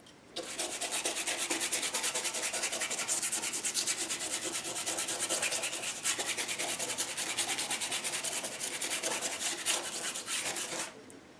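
A paintbrush scrubbing back and forth on the painting in quick, even strokes, about five a second, blending acrylic paint into soft clouds. The strokes stop abruptly near the end.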